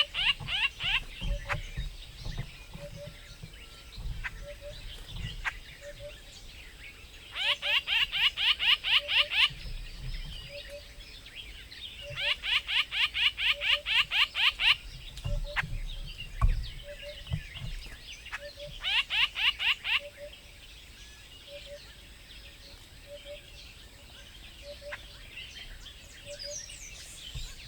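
A bird singing in trills: short bouts of fast, repeated downward-sweeping chirps, each bout lasting a second or two and coming four times. A faint, softer pip repeats at a steady pace between the bouts.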